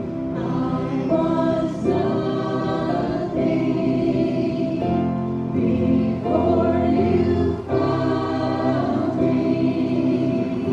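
A group of voices singing a hymn together in long held phrases, with musical accompaniment underneath.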